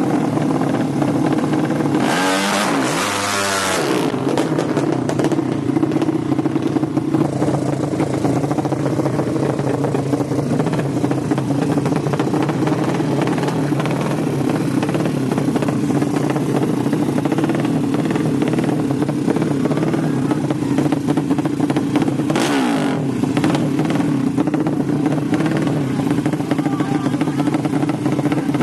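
A 200cc motorcycle engine running steadily. There are two brief louder sweeps with falling pitch, about two seconds in and again near twenty-two seconds in.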